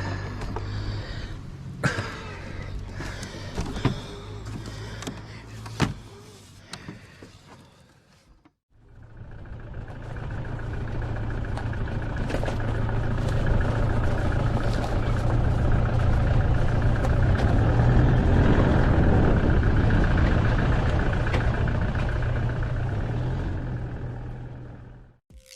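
A motor vehicle's engine running steadily, swelling to its loudest and then fading away over about fifteen seconds. Before it come several seconds of scattered clicks and knocks.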